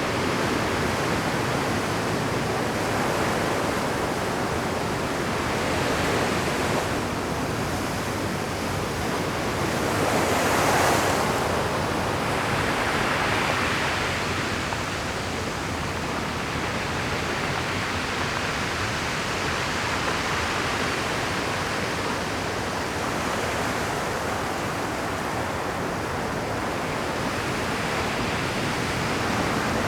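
Rough ocean surf breaking on rocky shore: a continuous wash of water with slow swells as waves crash, the biggest about ten seconds in.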